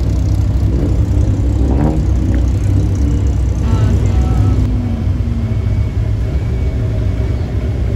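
Nissan GT-R's twin-turbo V6 running with a steady low exhaust rumble as the car rolls slowly past.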